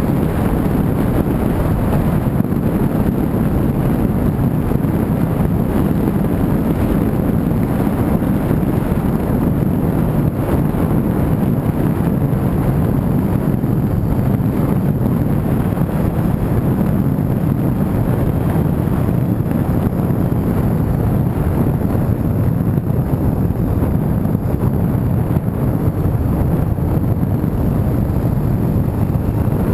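A car on the move: steady road and engine noise, a low rumble with no changes.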